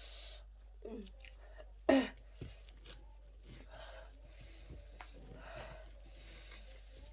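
A person chewing spicy chicken wings and breathing hard in repeated hissy breaths, with a short falling groan about a second in and a louder brief vocal noise about two seconds in, from the heat of the spice.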